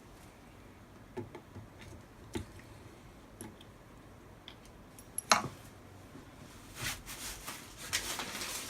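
Scattered small clicks and knocks of metal engine parts and tools being handled during assembly of a motorcycle engine's crankcase, with one sharper click about five seconds in and rustling handling noise near the end.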